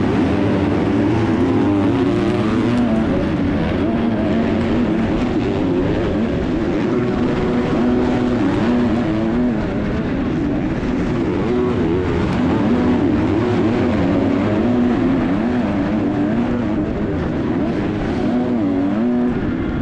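Motocross bike engine heard from the rider's onboard camera, revving up and down continuously as it is ridden hard on the track.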